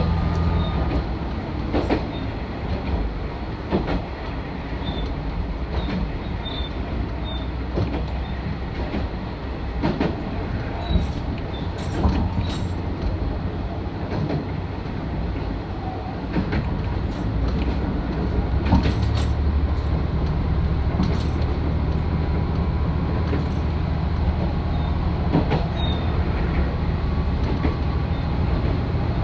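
Isumi 350 diesel railcar running along the line, with irregular clacks of its wheels over rail joints. The diesel engine's low drone fades about a second in and swells again about two-thirds of the way through.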